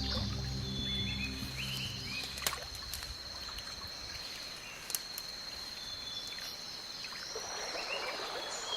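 Rainforest ambience: a steady high insect drone with scattered short chirping calls and a light trickle of water, with a couple of sharp clicks. Background music fades out in the first couple of seconds.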